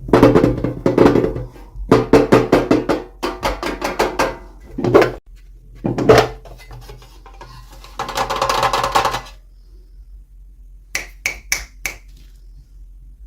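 Irregular taps and clicks of plastic toy packaging being handled and opened, with a short rustle about eight seconds in and four sharp clicks near the end.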